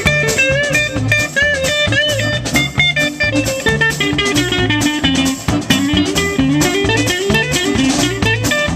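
Live band playing blues-style music: a guitar lead with bent notes over a bass line and a steady drum-kit beat.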